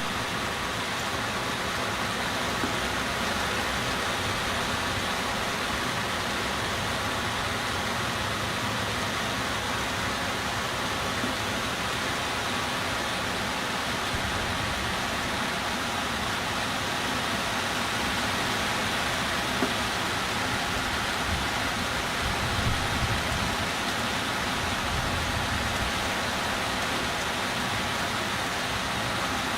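A steady, even rush of water, typical of heavy typhoon rain or swollen floodwater, holding at a constant level.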